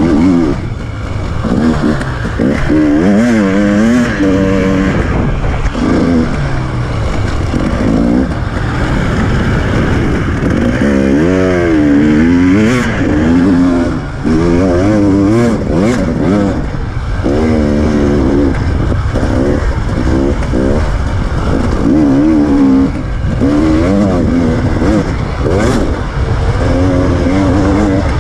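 KTM 300 EXC TPI two-stroke enduro motorcycle engine revving up and down over and over as the bike is ridden hard off-road, heard from on board. Occasional sharp knocks break in over the running engine and rushing noise.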